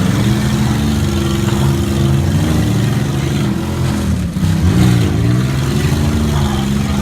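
Truck engine running loud and revving, its pitch rising and falling several times.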